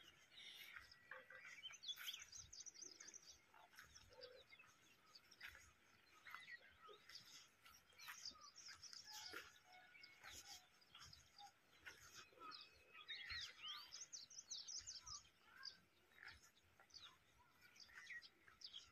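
Faint chirping of small birds: many short, quick calls overlapping, busiest a little past the middle.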